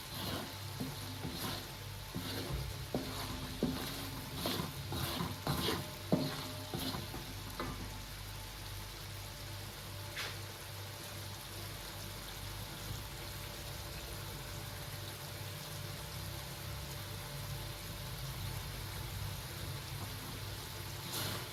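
Curry spice paste sizzling in oil in a cooking pot, being stirred, with a utensil scraping and knocking against the pot many times during the first eight seconds or so, then a steady sizzle. The paste is being fried until the oil separates and rises.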